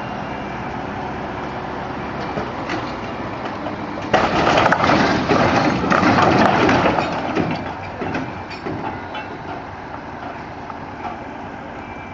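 A heavy vehicle's engine running steadily, then a sudden loud noise about four seconds in that fades out over several seconds.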